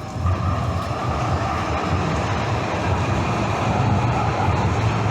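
Rail vehicle running along the track: a steady rumble with a higher-pitched hum over it, stepping up in loudness just after the start.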